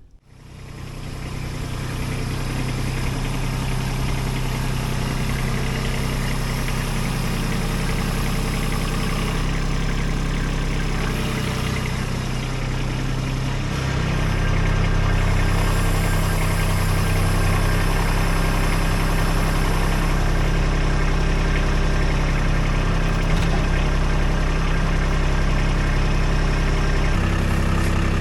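Kubota B2601 compact tractor's diesel engine running steadily, growing a little louder and deeper about halfway through.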